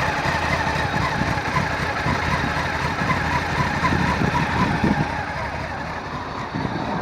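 Honda CB1100SF X11's inline-four engine running steadily, with a constant noisy rush over a low rumble.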